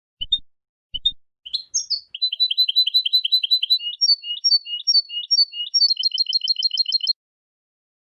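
European goldfinch singing: a few separate short notes, then from about two seconds in a fast run of repeated twittering notes in changing phrases that stops suddenly about a second before the end.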